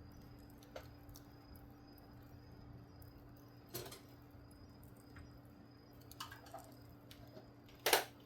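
Wood fire crackling, with a few scattered sharp pops and snaps, the loudest near the end, over a faint steady hum.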